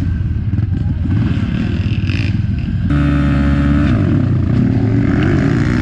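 Motocross bikes running on a dirt flat track. About three seconds in, one bike's engine comes in loud with a steady note that then wavers up and down in pitch.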